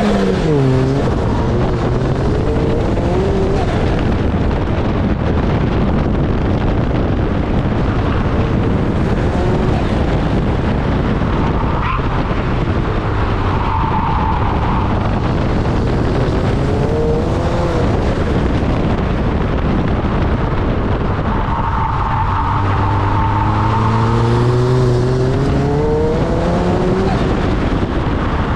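Turbocharged Mazda MX-5's four-cylinder engine driven hard on track, its revs climbing and dropping several times as it goes through the gears, over constant tyre and road noise.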